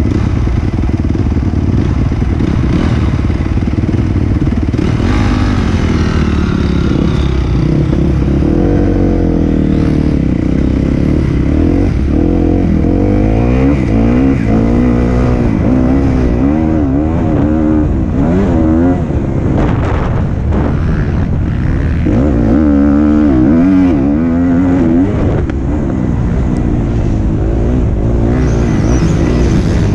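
Motocross bike engine, recorded onboard, revving hard and easing off over and over, its pitch rising and falling through the gears.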